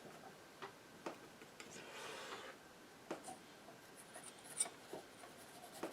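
Painting knife working paint onto the picture: a few faint sharp taps and a short scrape about two seconds in.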